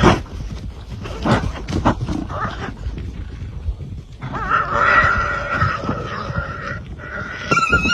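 Animal calls: a series of short grunts, then a long wavering higher-pitched call from about halfway in, with another loud call starting near the end.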